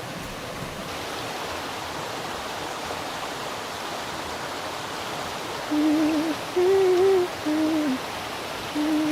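Steady rushing water ambience, like a stream or waterfall. From a little before the end, four short, low, wavering hoot-like tones sound one after another over it.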